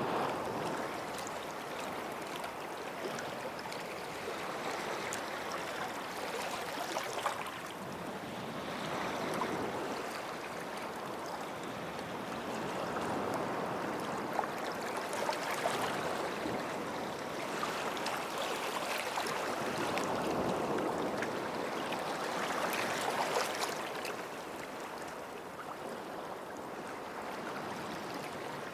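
Small sea waves washing up on a sandy shore and drawing back, swelling and fading about every seven or eight seconds.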